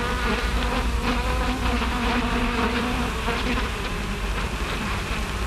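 Bees buzzing: a steady, wavering drone that thins out about three seconds in.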